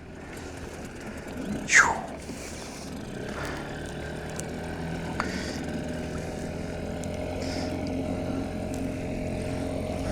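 Outboard motor running steadily at speed, growing slightly louder, with a brief loud sound sliding down in pitch about two seconds in.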